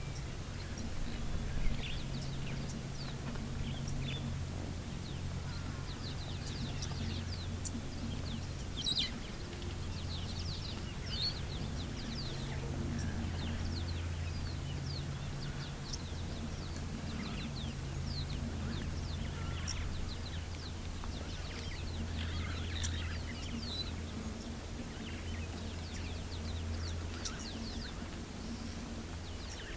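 Wild birds calling with many short, high chirps scattered throughout, over a steady low hum.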